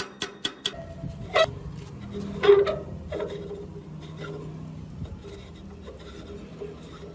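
Workshop sounds of metal being worked: a run of quick, evenly spaced clicks, about four a second, stops early on. Then a knock and a louder metallic clang about two and a half seconds in, over a low steady hum.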